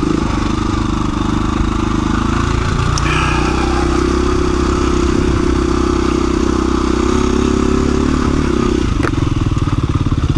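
2017 KTM 350 EXC-F's single-cylinder four-stroke engine running at a low, steady throttle as the dirt bike picks its way along a rocky single-track trail. About nine seconds in there is a sharp knock, and the engine note drops to a lower, pulsing beat.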